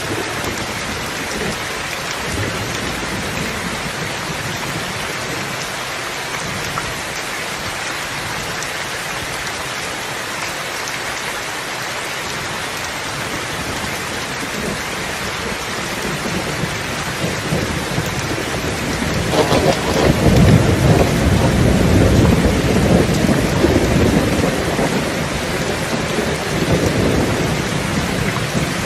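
Steady rain, with a long roll of thunder that builds from about halfway through, is loudest a few seconds later, then slowly rumbles away near the end.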